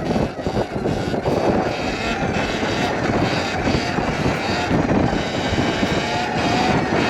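Wind rushing over the microphone and tyre noise as a Sur-Ron electric dirt bike rides fast down a street, with a faint whine near the end.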